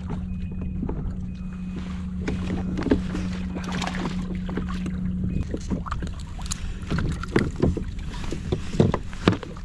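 Sounds aboard a Hobie Adventure Island kayak on the sea: water sloshing against the hull and wind, with scattered knocks and taps. A steady low hum runs under them and stops about halfway through.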